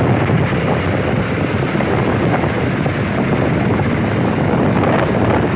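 Loud, steady rushing vehicle noise, like an engine sound effect, that cuts in and stops abruptly.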